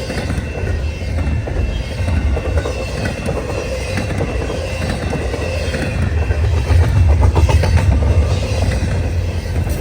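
Long freight train's cars rolling past at speed: a steady, loud rumble of steel wheels on rail, with a faint steady whine. Clicks of wheels over rail joints grow louder about seven seconds in.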